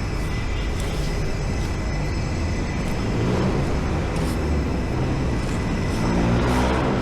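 CFMoto 450SR parallel-twin engine running under way, over steady wind and road noise. The engine note climbs about three seconds in and again near the end.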